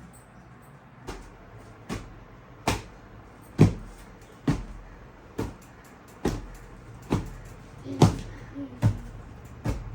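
A series of about eleven sharp knocks at a steady pace, a little more than one a second.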